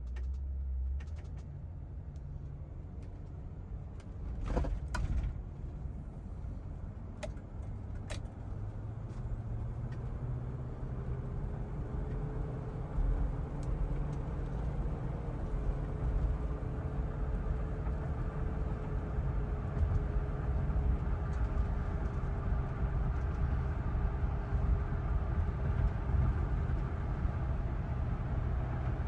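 A car engine, most likely the 1976 Cadillac Eldorado's 500 cubic-inch V8, running with a steady low rumble that grows slowly louder. There are a few short clicks about five and eight seconds in, and a faint steady whine joins from about ten seconds.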